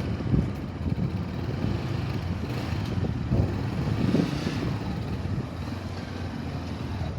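Motorcycle running, with wind buffeting the microphone as a steady low rumble.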